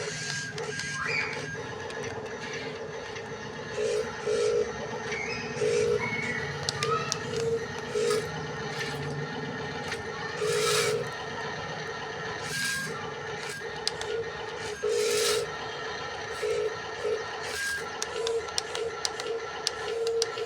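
Radio-controlled model loader and dump truck working: the electric motors and hydraulic pump whine in short, repeated spurts as the machines move. Several brief rattling bursts of gravel being scooped and tipped come in between.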